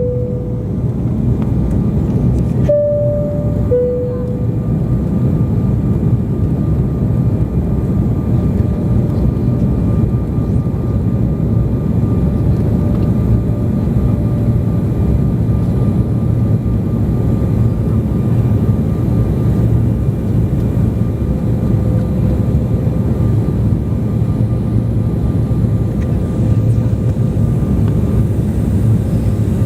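Steady cabin noise of an airliner in flight, engine and airflow rumble heard from inside the passenger cabin, with a faint steady whine. About three seconds in, a click is followed by a two-note high-low chime, sounding once.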